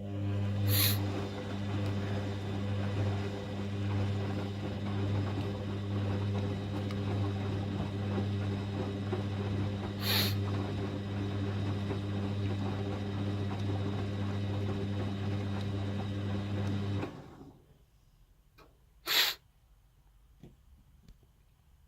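Hoover washing machine on the first rinse of a cotton 90 °C wash, humming steadily with short splashy noises about a second in and ten seconds in. The hum cuts off suddenly about 17 seconds in, followed by one short sharp noise about two seconds later and then quiet clicks.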